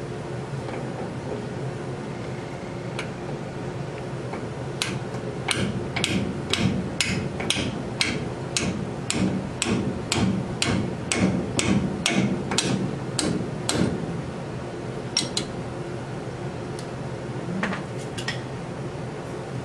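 Hammer striking metal: a run of about twenty sharp blows, about two a second, then a few scattered blows near the end, over a steady background hum.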